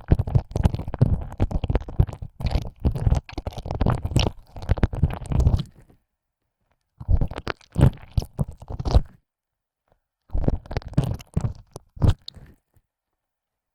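Wet ear-licking ASMR: a tongue sliding and pushing in and out of a binaural microphone's ear canal, with dense crackling, slurping mouth noises. It runs continuously for the first half, stops, then comes back in two shorter bursts before falling silent.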